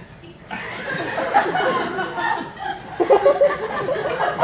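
Theatre audience laughing, breaking out suddenly about half a second in and swelling toward the end.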